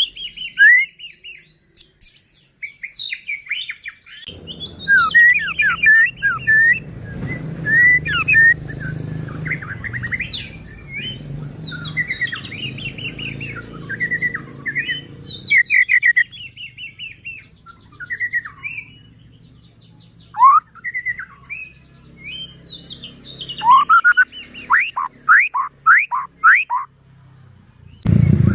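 White-rumped shama (murai batu) singing in full voice: a varied run of loud, sweeping whistles mixed with quick rattling notes, in phrases with short pauses between them. A low background rumble runs under the song from about four seconds in until about halfway.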